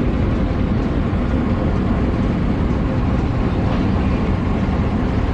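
Steady low rumble of a vehicle running, heavy in the low end and unbroken throughout.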